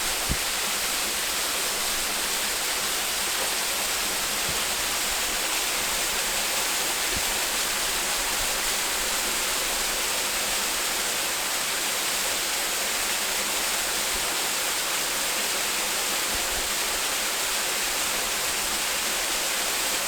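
Waterfall: a steady, unbroken rush of falling water, heavy in hiss, with a short knock just after the start.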